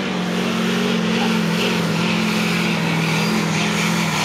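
Diesel pickup truck engine running hard at high revs under the load of a weight-transfer pulling sled. The engine note holds at a near-constant pitch, with a steady rush of noise over it.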